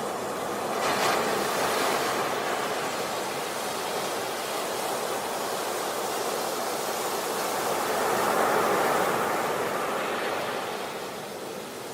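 Sea waves washing onto a beach: a continuous surf wash that swells twice, about a second in and again around eight seconds, then eases off near the end.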